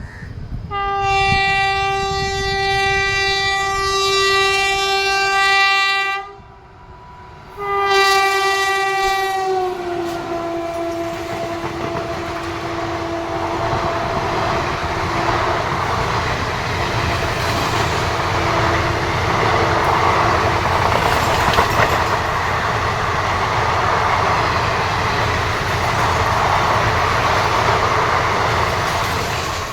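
Indian Railways WAP4 electric locomotive sounding two long horn blasts as it approaches at speed; the second drops in pitch as the locomotive passes. Then the rushing rumble of the coaches going by at speed, with a faint clickety-clack of wheels on rail joints.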